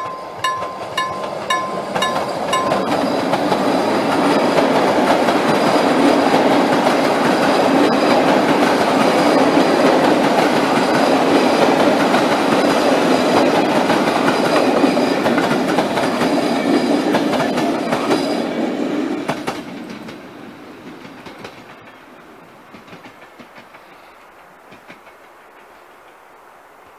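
Railroad crossing bell (KLD-40) ringing steadily at about two and a half strikes a second for the first few seconds. It is then drowned out as an electric-hauled passenger train passes loudly over the crossing for about seventeen seconds. The train's noise fades away about twenty seconds in.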